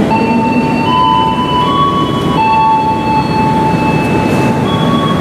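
Passenger train carriages moving slowly along a station platform: a steady rumble with high-pitched squealing from the running gear, held notes that jump abruptly from one pitch to another every second or two.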